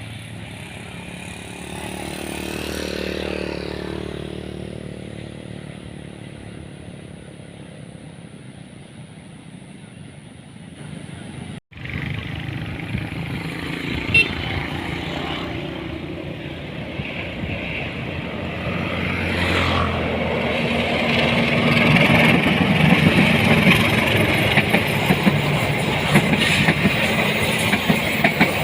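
A vehicle passes early, falling in pitch, and the sound cuts out briefly a little under halfway. Then a train comes closer, its wheels rumbling and clattering on the rails, growing loudest in the second half.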